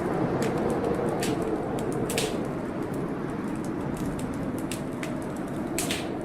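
Wood fire in a fireplace crackling, with sharp irregular pops, the strongest about 2 s in and near the end, over a steady low rush of storm wind and rain.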